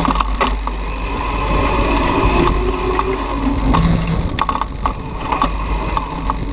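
Razor MX500 electric dirt bike riding, its electric motor whining steadily over chain and tyre noise, with scattered clicks and a constant low rumble.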